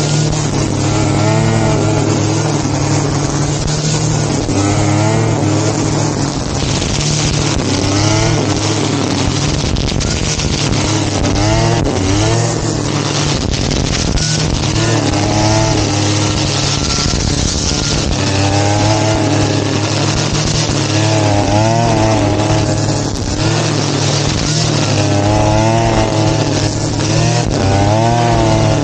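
Grass-cutting machine (brush cutter) engine running at high speed, its pitch dipping and recovering over and over as the blade works through the grass.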